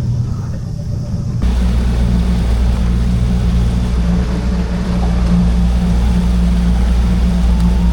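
An engine runs steadily with a low hum. About a second and a half in it steps up louder, with a rushing noise added over it.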